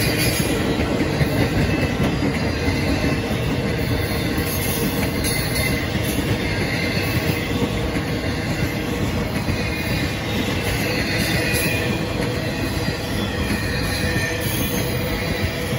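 Freight train cars rolling steadily past, a continuous noise of wheels on the rails.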